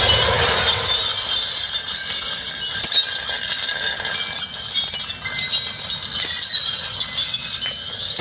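Continuous, dense high-pitched jingling and clinking, like many small metal or glass pieces shaking together.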